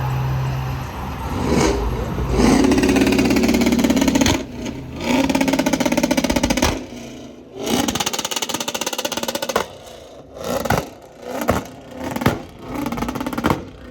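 Chevrolet Camaro engine revved hard in two long bursts, followed by a string of shorter, sharp blips.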